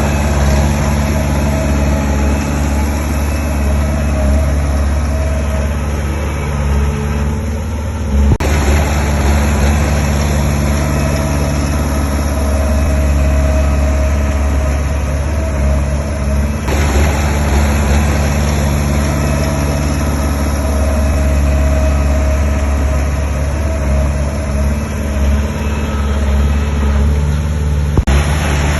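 Heavy diesel engines of earthmoving machines running steadily, a low engine hum. The sound changes abruptly twice, about eight and seventeen seconds in, and there is a brief knock near the end.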